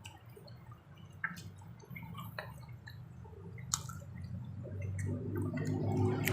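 Close-up wet eating sounds: chewing and lip-smacking on pizza, with scattered small clicks and a few sharper smacks over a low hum.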